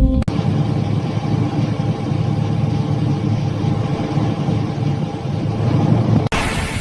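Car engine running with a rough, uneven rumble. It starts abruptly about a quarter second in, and changes abruptly near the end to a brighter, hissier running sound.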